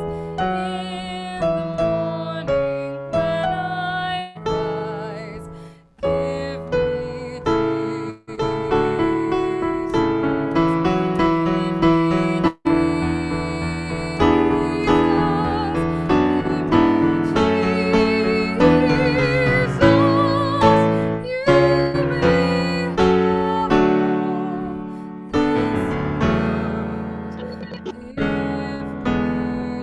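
Piano music: a slow piece of notes and chords, each struck and left to fade.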